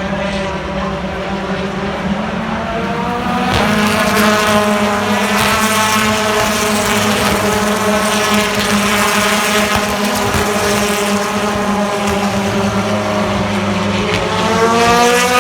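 British Touring Car Championship race car engine running hard, its note held fairly steady for most of the stretch. It gets louder a few seconds in and climbs in pitch near the end.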